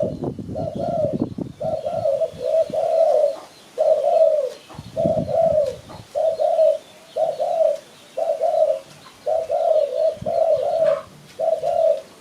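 Spotted dove cooing: a long series of short, soft coos at a steady pitch, about one a second, with some low rumbling early on and around the middle.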